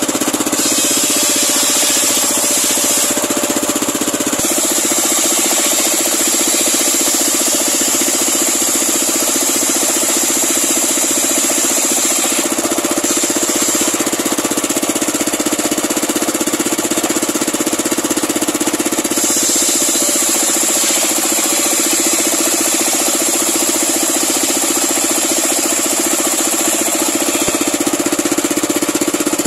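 Homemade engine-driven circular sawmill running loud and steady, its blade ripping lengthwise through a large pulai log for boards. A high whine swells and eases in long stretches over the steady run.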